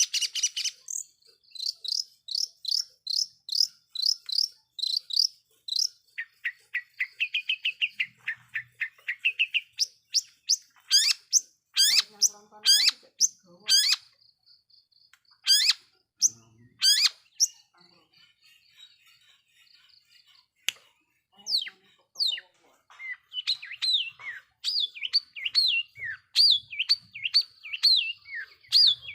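Long-tailed shrike (cendet) singing a fast, varied song: a quick run of repeated sharp chirps, then lower warbled notes, then loud steep downslurred whistles around the middle, and busy chattering phrases near the end.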